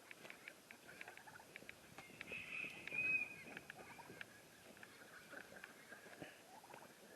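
Faint scratching and scattered light ticks of a bird dust-bathing and kicking at loose dirt, with a soft high call from the poultry about two to three seconds in.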